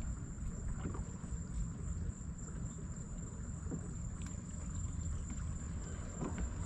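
Small boat's motor running slowly, a steady low rumble, with a thin constant high tone above it.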